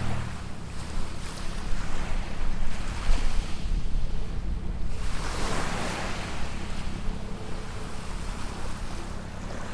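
Small waves breaking and washing up a sandy beach, one wash swelling about five seconds in, with low wind rumble on the microphone.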